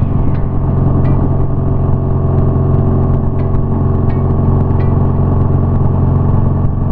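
BMW R nineT's air/oil-cooled boxer twin engine running at a steady speed while riding, its pitch holding level.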